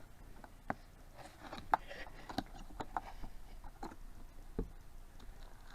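A fish finder's retail box and packaging being opened and handled: scattered light clicks, taps and rustles, a sharper tap about a second and a half in.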